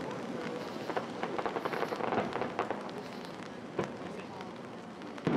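Aerial fireworks bursting: a run of crackling pops, thickest between about one and three seconds in, then a single louder bang near four seconds.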